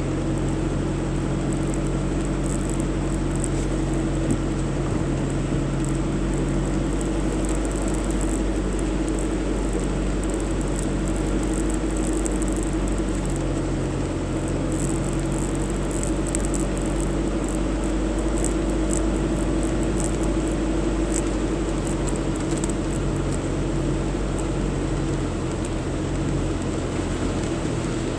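A car driving along flooded streets, heard from inside the cabin: a steady low engine hum under a constant hiss of tyres through water, with many light ticks.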